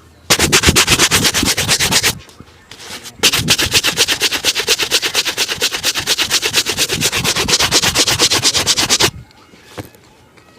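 Rapid back-and-forth rubbing strokes on a shoe during a shoe shine, several strokes a second. A short bout of about two seconds, a brief pause, then a longer bout of about six seconds.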